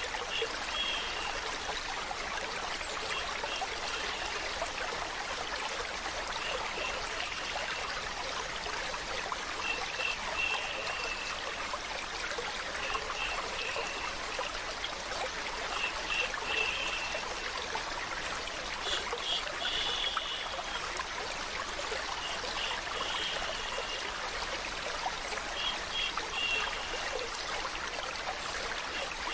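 Water running and trickling steadily, like a small stream, with short brighter high-pitched sounds recurring every two to three seconds.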